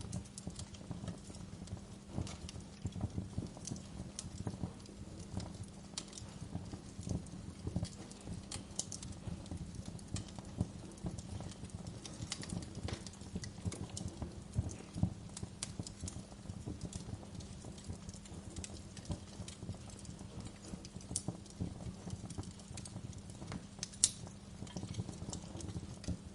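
Wood fire burning in a fireplace: steady irregular crackling with sharp pops over a low rumble of the flames, one louder pop about 24 seconds in.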